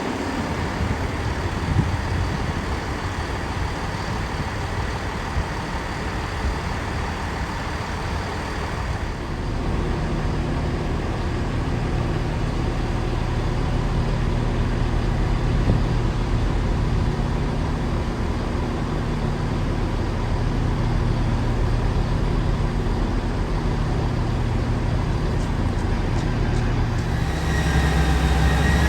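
Diesel train engine running with a steady low drone that sets in about nine seconds in and grows louder near the end, over an even rushing noise.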